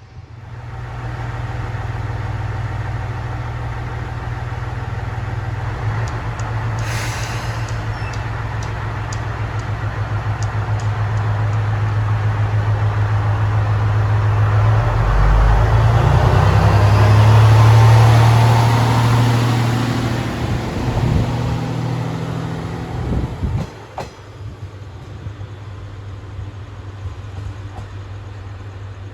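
Diesel railcar running, its engine hum building steadily to a peak about eighteen seconds in, with a run of light clicks a few seconds in. The sound drops off sharply about twenty-three seconds in.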